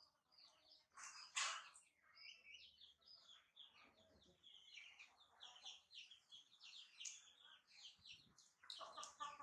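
Faint birds chirping: many short high chirps throughout, with one brief louder noise about a second and a half in.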